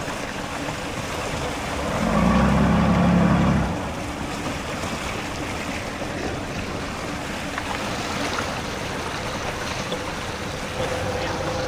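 Wind and sea waves, steady and noisy, with a louder low rumble for about a second and a half, starting about two seconds in.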